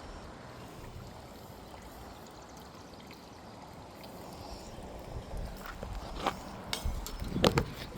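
Creek water running steadily, with several sharp knocks in the second half, the loudest near the end.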